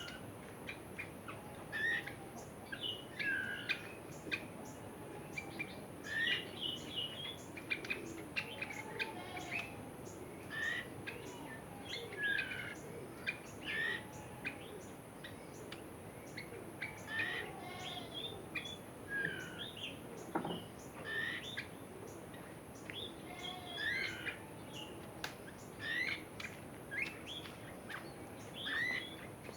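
Several birds calling in the open: short chirps and whistled notes repeated every second or so, over a steady background hiss, with one sharp click about two-thirds through.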